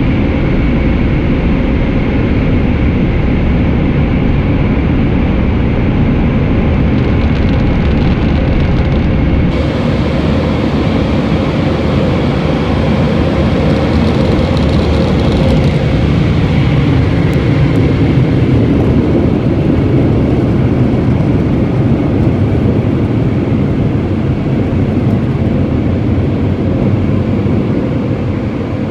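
Oasis Eclipse car wash dryer blowers running: a loud, steady rush of air with a steady hum under it. A hissier edge comes in about ten seconds in.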